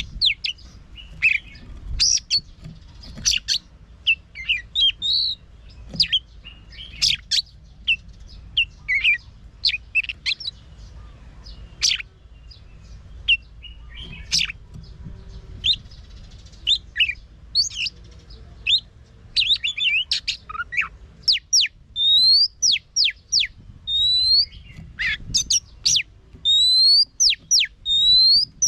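Oriental magpie-robin singing in its wild-type song, a varied run of quick whistled notes and sharp pitch sweeps. In the latter part of the song a rising whistle repeats about once a second.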